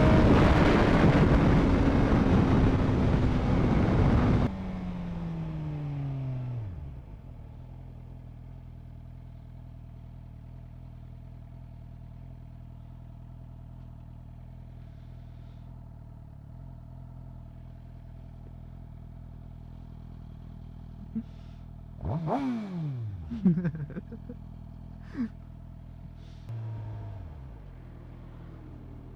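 Suzuki GSX-R750 inline-four slowing down: loud wind noise and falling engine pitch cut off after about four seconds, and the engine drops to a steady idle. Near the end there is a short burst of engine sound with falling pitch and a few sharp clicks.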